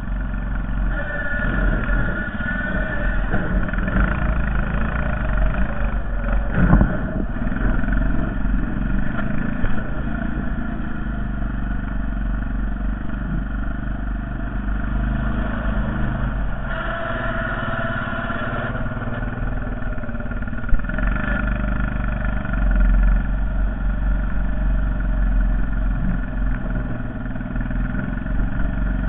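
Honda Foreman 450 ATV's single-cylinder four-stroke engine running steadily while plowing snow, its note swelling twice. Two short knocks stand out, one about a quarter of the way in and one about two-thirds through.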